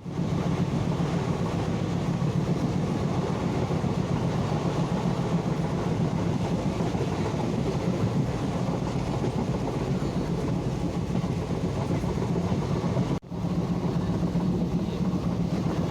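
A train running steadily, with a continuous deep rumble. The sound breaks off for a split second about thirteen seconds in, then resumes unchanged.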